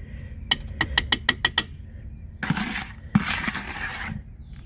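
A spoon clinking quickly about seven times against a container, then two longer scrapes as potting mix of soil, coconut coir and perlite is scooped and spread over sown seeds.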